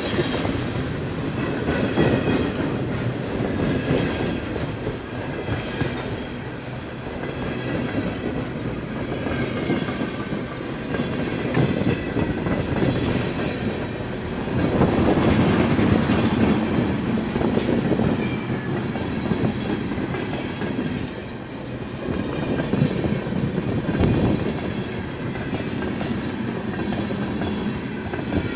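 A CN freight train's cars rolling past, their wheels clattering over the rails with a steady rumble that swells as each car goes by.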